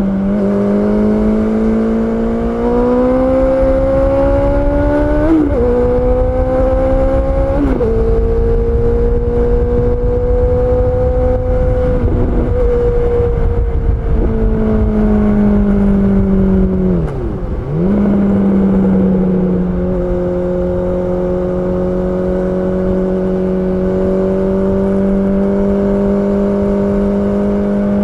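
Honda CB650R inline-four engine pulling through the gears: revs climb, then drop sharply at two upshifts a few seconds in, before settling into a steady cruise. About 17 seconds in the revs dip briefly and come back, over a constant rumble of wind and road noise.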